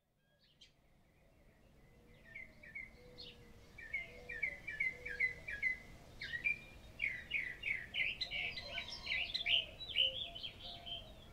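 Small birds chirping, fading in from silence over the first couple of seconds. Quick strings of short chirps get busier and louder from about six seconds in.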